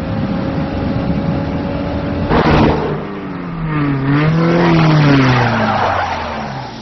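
Film sound of car engines running and revving during a car chase, with tyres skidding. A sudden loud burst comes about two seconds in, then the engine pitch rises and falls.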